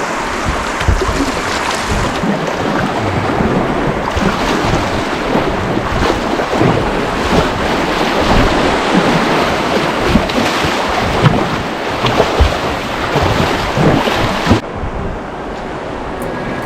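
Whitewater river rushing loudly, with wind buffeting the microphone in uneven low thumps. About fifteen seconds in the sound drops abruptly to a quieter, duller rush.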